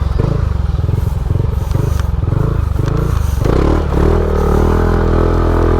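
Motorcycle engine running at low speed, its pitch climbing as it accelerates about three and a half seconds in, then holding steady.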